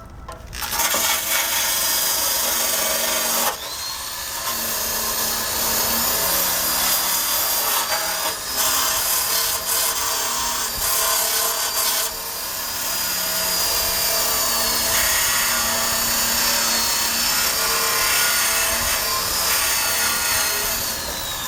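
Power drill with a wire brush scrubbing rust off the steel frame of a 1965 Honda Cub: a continuous scraping with a wavering motor whine. It starts about half a second in and briefly eases off twice.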